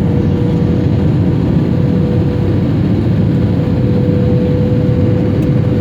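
Airliner cabin noise: steady engine and airflow noise heard from inside the passenger cabin, with a steady mid-pitched hum running through it.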